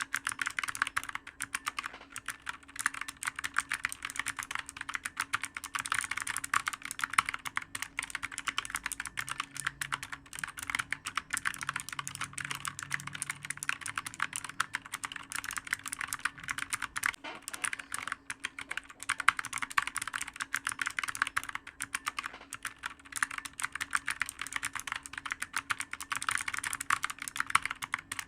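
Computer keyboard being typed on quickly and continuously, a dense stream of uneven key clicks over a faint steady hum.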